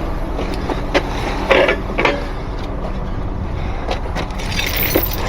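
Heavy truck's diesel engine idling steadily, with several sharp metal clinks and knocks over it, the loudest two about a second and a half and two seconds in.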